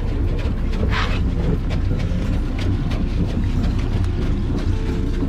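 Motorboat engines running steadily with a dense low rumble, a brief higher sound about a second in.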